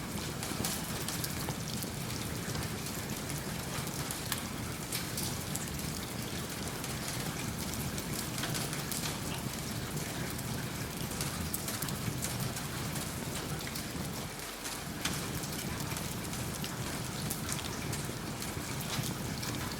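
Steady rain falling, an even hiss dotted with many small sharp ticks.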